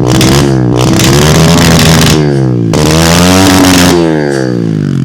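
125cc pit bike's single-cylinder four-stroke engine being revved up and down about three times, then dropping back toward idle near the end. It is running on its first start after standing for six months, and sounds healthy.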